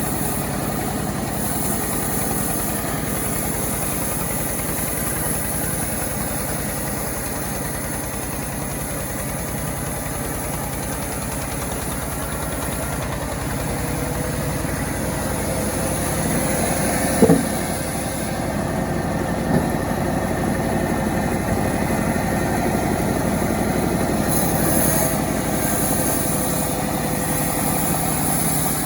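Self-assembled chainsaw's engine running steadily, with a sharp knock about two-thirds of the way through and a smaller one a couple of seconds later.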